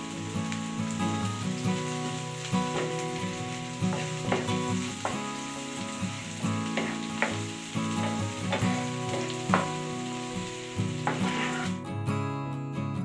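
Food sizzling in a frying pan while it is stirred, with scattered clicks and scrapes of the utensil against the pan, over background guitar music. The sizzling stops near the end, leaving the music alone.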